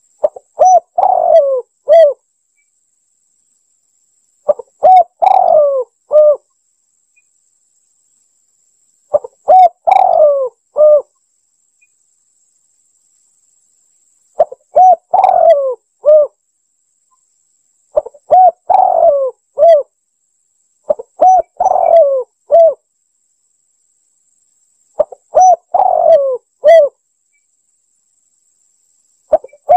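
Spotted dove calling: a phrase of several low, pitched coos about two seconds long, repeated about every four seconds with dead silence between. It is a recorded lure call, played in a loop to draw in spotted doves.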